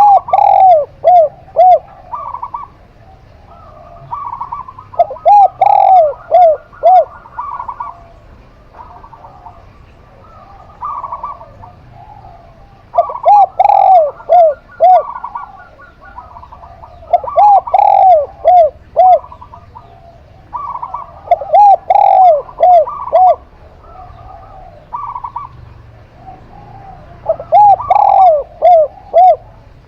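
Zebra dove (perkutut) and spotted dove (tekukur) cooing. Loud phrases of four or five arching coos repeat about every four seconds, with other shorter coo notes and a brief trill between them.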